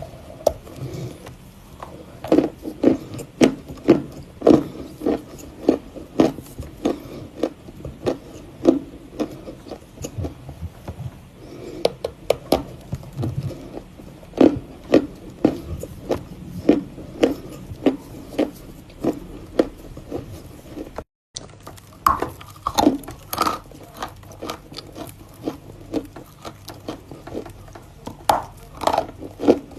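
Close-up chewing of chunks of chalk: a steady run of sharp, dry crunches, about two to three a second, with a brief gap a little over two-thirds of the way in.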